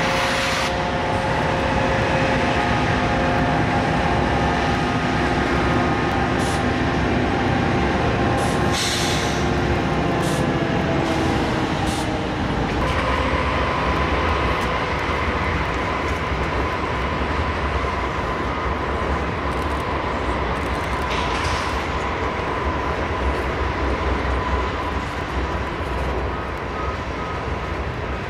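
Freight train passing, with Norfolk Southern and BNSF diesel locomotives running and freight cars rolling over the rails in a steady rumble. There is a brief hiss about nine seconds in, and a steady high whine from about halfway through.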